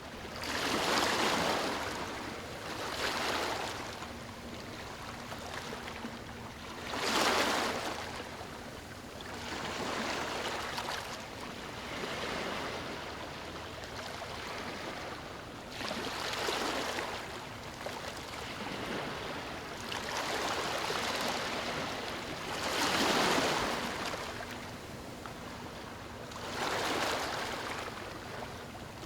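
Ocean waves breaking and washing up on a beach, swelling and ebbing about every three or four seconds, with a few louder crashes among them.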